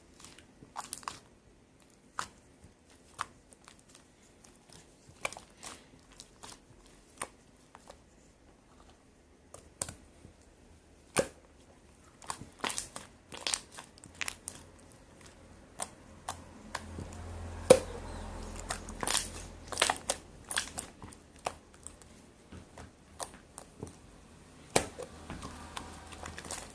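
Slime being squished and folded by hand, with irregular sharp clicks and pops as trapped air bursts. The clicks come sparsely at first and grow thicker and louder about two-thirds of the way through.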